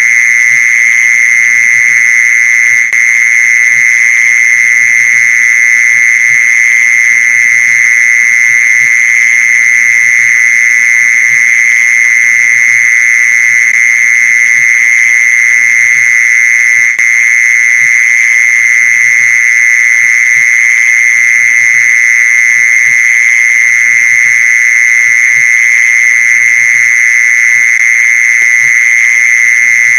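Mole cricket's continuous trill: one high, steady buzzing tone that goes on without a break, played as a lure call.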